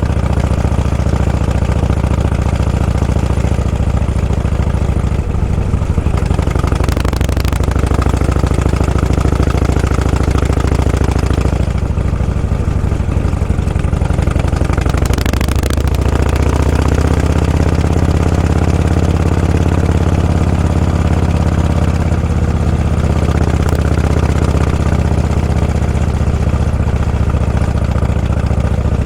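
Vehicle engine running steadily at low road speed, its pitch dipping and rising again twice, about six and fifteen seconds in, with a short rush of noise each time.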